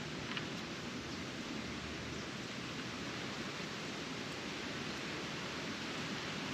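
Steady hiss of a garden hose spraying water, even in level throughout.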